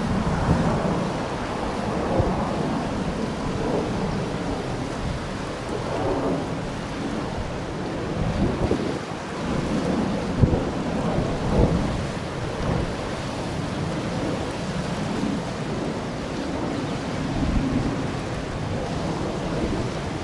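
Strong gusty wind buffeting the microphone: a steady rushing noise with low rumbles that swell and fade with the gusts, strongest a little after the middle.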